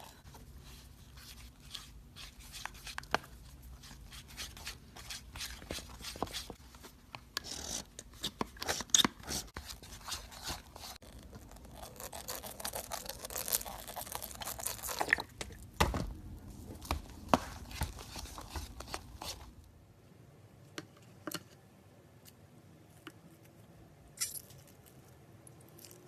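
Slime stress ball being cut open: a run of small crackles and sticky clicks for about twenty seconds, thinning to a few scattered clicks near the end.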